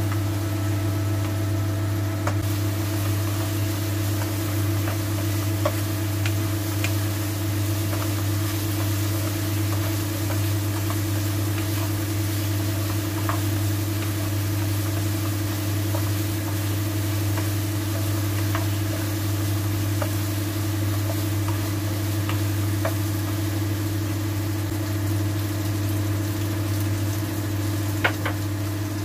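Chicken wings sizzling in a sauce that is cooking down nearly dry in a wok, stirred with a wooden spatula that taps and scrapes the pan now and then, with a louder tap near the end. A steady low machine hum runs underneath and is the loudest part.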